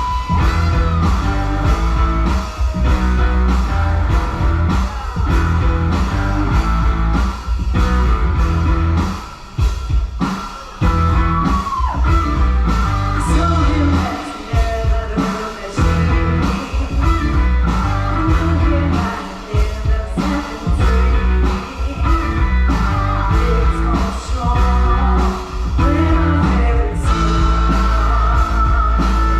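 An 80s rock song played loud over the stage sound system, with singing, a driving drum beat and electric guitar.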